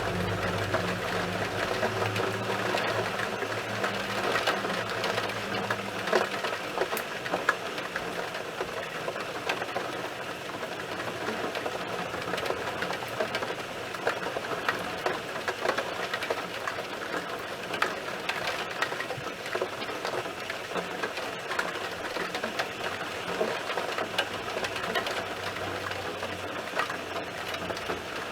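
Heavy thunderstorm rain pattering, a dense stream of drops ticking on nearby surfaces. A low hum sounds under it for the first six seconds or so, then fades.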